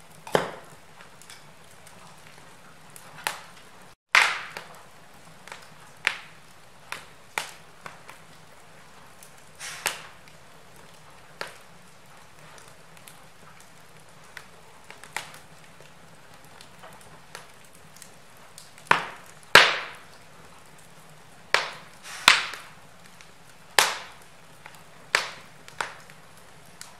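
Wood fire burning in a fireplace, crackling with irregular sharp pops and snaps over a faint steady background. The pops are louder and come more often in the second half.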